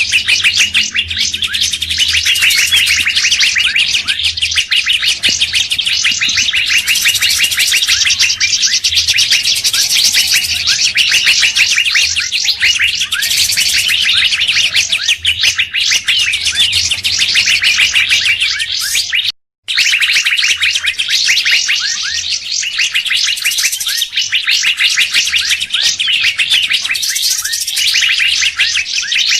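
Bird-lure recording of songbirds: dense, rapid, high-pitched chirping and twittering without pause. It drops out completely for a moment about two-thirds of the way through.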